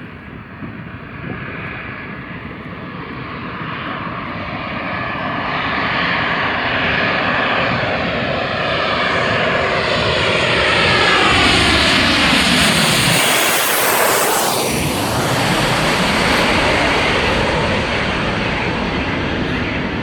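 Airplane passing low overhead on its landing approach: the engine noise builds steadily, peaks about halfway through, and its pitch slides down as the plane goes past.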